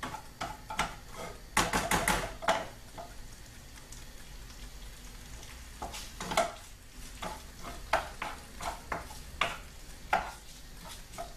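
Diced cooked ham sizzling as it fries in oil in a frying pan, while a wooden spoon stirs it, scraping against the pan in irregular strokes, with a quick run of scrapes about two seconds in.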